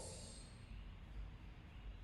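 Quiet pause: faint room tone with a low hum, the echo of the last spoken word dying away at the start.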